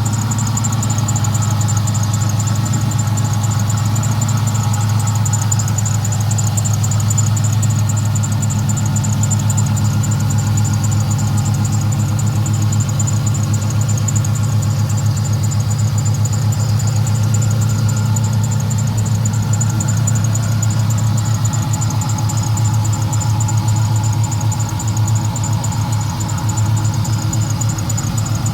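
LS2 6.0-litre V8 in a 1973 Chevy Camaro idling steadily shortly after a cold start.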